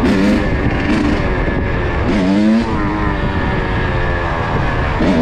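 Kawasaki KX85 two-stroke dirt bike engine revving, its pitch rising sharply twice as the throttle is opened, over steady wind noise on the microphone.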